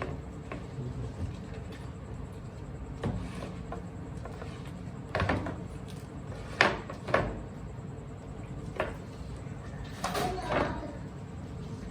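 Hot Wheels toy monster trucks being handled, giving irregular knocks and clatters. A few louder knocks come about halfway through and a clatter comes near the end.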